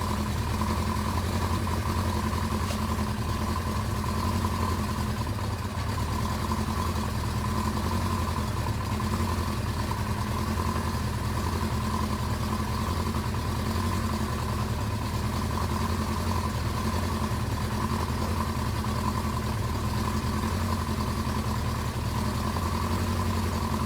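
1983 Suzuki GS1100GK's air-cooled inline-four engine idling steadily.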